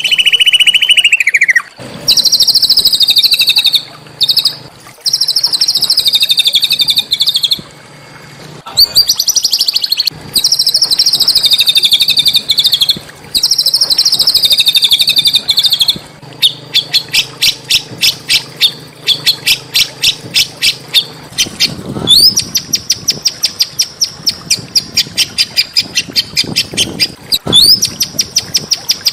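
Small songbird singing high, rapid trills: several trills about two seconds long with short gaps between them, then a fast run of sharp chips, then a long unbroken trill that opens with a rising note.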